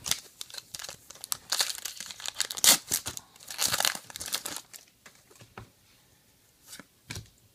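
A 2019 Topps Star Wars trading card pack wrapper being torn open and crinkled by hand, dense crackling for about five seconds, then a few scattered light clicks as it settles.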